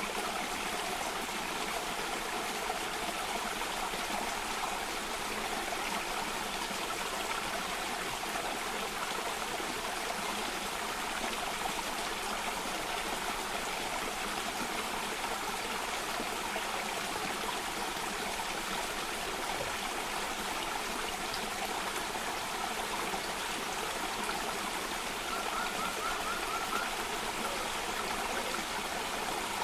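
Stream water running over a cascade: a steady rush of flowing water.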